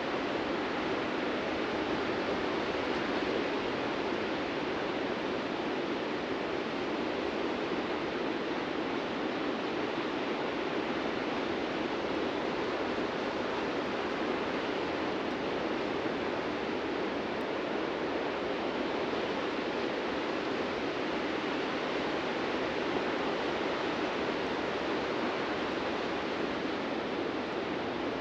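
Ocean surf breaking on a beach, a steady continuous wash of waves with no distinct swells standing out.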